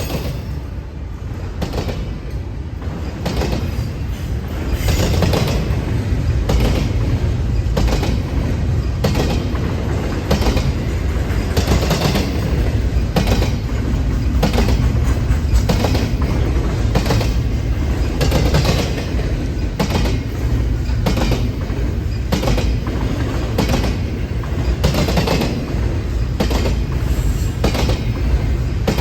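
Norfolk Southern freight train rolling past close by: a steady low rumble with wheels clacking over rail joints in an even rhythm, growing louder about four seconds in.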